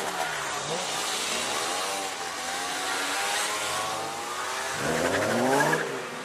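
E63 BMW M6's V10 engine accelerating away, its pitch rising in several sweeps, with the loudest, steepest rev about five seconds in.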